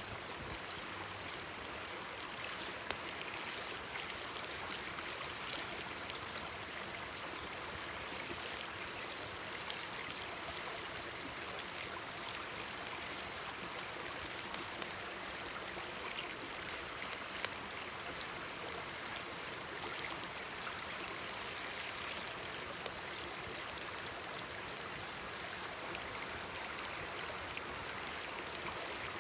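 Mountain stream babbling steadily, with scattered sharp crackles and pops from a wood campfire.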